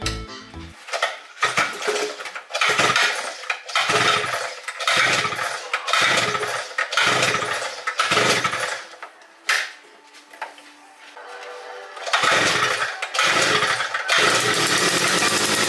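Mototec Thunder 50cc pit bike's small engine being pull-started: a series of short sputtering bursts about a second apart, a lull, two more bursts, then it catches about fourteen seconds in and runs steadily.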